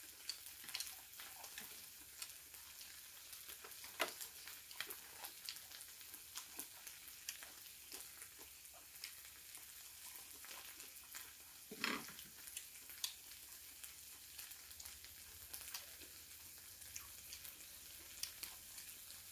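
Marinated webfoot octopus (jjukkumi) sizzling quietly in a Baekma frying pan on a Soto camping gas stove: a steady fine crackle dotted with small pops.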